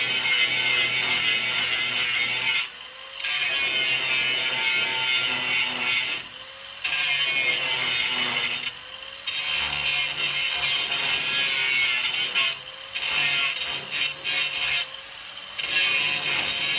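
Angle grinder grinding down welds on the steel floor of a 1955 Chevy truck. It runs in stretches of a few seconds, with about five short pauses where the grinder is eased off and brought back up.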